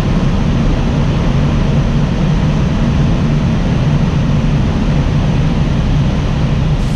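Mercedes-Benz E 400 Coupé's 3.0-litre petrol V6 pulling steadily at high speed, a low engine drone under heavy wind and tyre noise.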